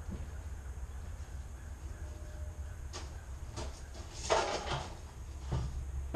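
A few sharp knocks and a short clatter, the loudest a little past four seconds in, over a steady low hum.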